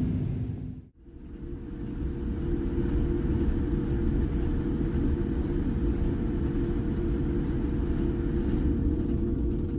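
Steady low rumble of a moving vehicle with a faint steady hum; the sound drops out briefly about a second in and picks up again.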